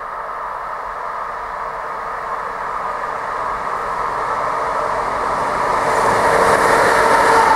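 Electric-hauled container freight train passing close by: a steady rumble of wheels on rail that grows gradually louder and brighter as the locomotive and the first wagons go past.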